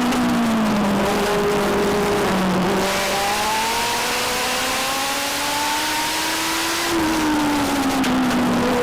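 Legend car's four-cylinder Yamaha motorcycle engine at racing speed. The revs drop for the first couple of seconds as the car lifts into a corner, climb steadily for about four seconds down the straight, then drop again near the end for the next turn.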